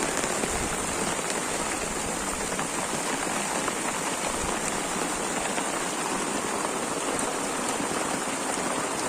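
Steady heavy rain falling and pattering on surfaces, with faint scattered drop ticks.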